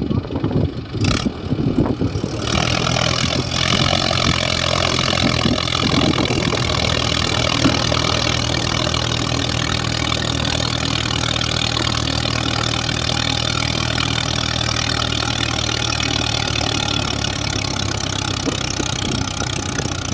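Heavy diesel machinery engine running steadily. It is uneven for the first two seconds or so, then settles into a steady, slightly louder run.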